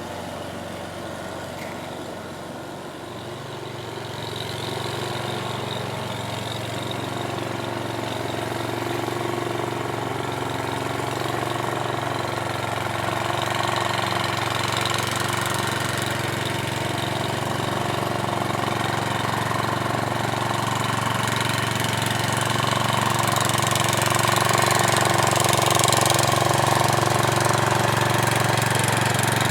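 Sears Suburban garden tractor engine running steadily, getting gradually louder through the stretch.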